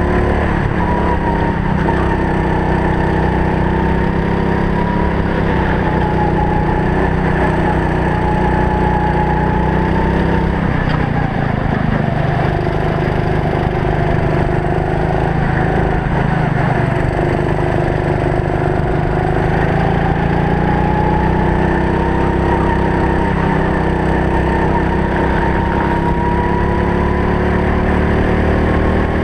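Racing go-kart's engine running hard during a race, heard from the driver's helmet camera, its pitch rising and falling repeatedly with a couple of dips in engine speed partway through.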